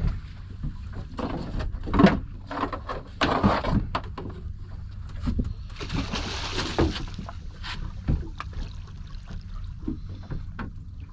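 Knocks and thumps on a small boat, the loudest about two seconds in, with a splash of water around six seconds in, as a conger eel is gaffed and brought aboard. A low steady rumble runs underneath.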